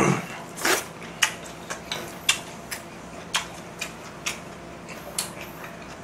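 A person chewing a mouthful of food close to the microphone: wet, sharp mouth clicks at irregular intervals, about two a second, after a louder mouth noise at the very start.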